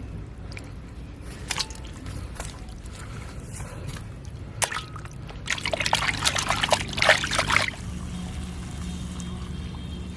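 Wet eating sounds of rice and gravy being handled and eaten, with scattered clicks and a denser run of crackling noise between about five and a half and seven and a half seconds in.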